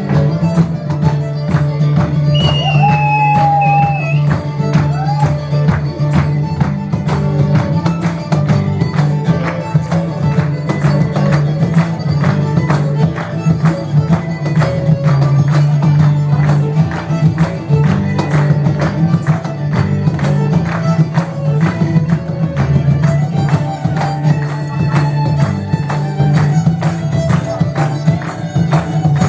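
Live Celtic folk band playing a dance tune, with a steady low drone under a fast, even percussion beat.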